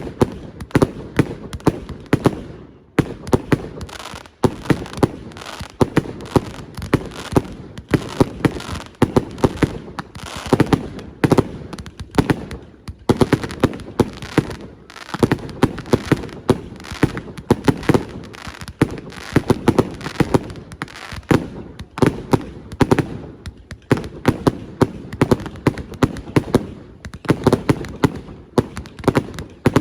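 Fireworks display: a dense, continuous barrage of bursting shells, with many sharp bangs a second overlapping and crackling, and brief lulls only twice.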